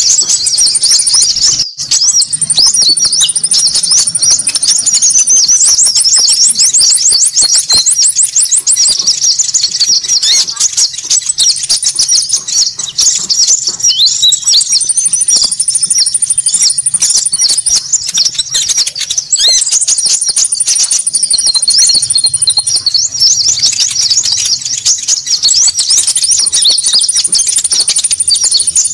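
A noisy bird-lure recording of konin calls: many small songbirds calling at once in a dense, high-pitched chatter of short notes. Every few seconds a long, even, very high trill runs over it, and one rapid ticking trill comes about six seconds in.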